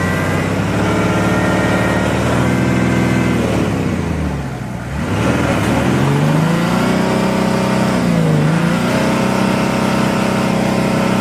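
Off-road car's engine revving hard under load. Its pitch sinks about four seconds in, climbs back up, dips once more briefly and then holds high.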